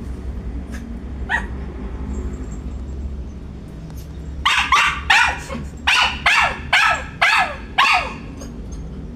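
A poodle barking: a single bark about a second in, then a quick run of about eight barks, roughly two a second.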